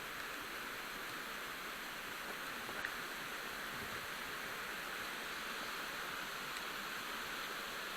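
Steady rushing of running water, an even hiss that stays at one level throughout.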